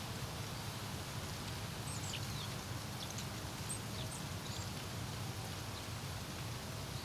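Wind blowing across a lake, a steady rumbling hiss, with a few faint high bird chirps about two to five seconds in.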